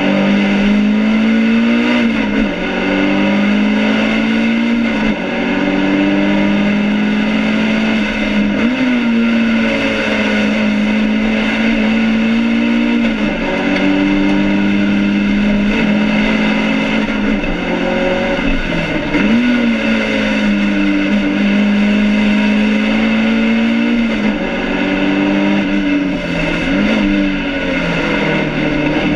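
BMW 2002 race car's four-cylinder engine heard from inside the cabin under hard acceleration, its note held steady for several seconds at a time and dipping briefly several times as it changes gear or lifts for corners. The engine is being short-shifted to spare it from overheating.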